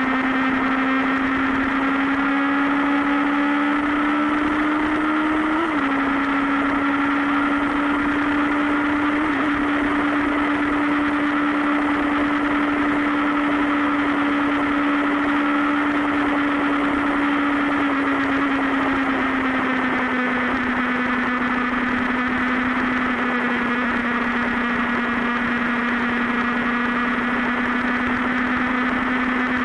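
Superbike engine running at a steady cruising speed, a constant drone whose pitch dips slightly about six seconds in and eases a little lower at around eighteen seconds.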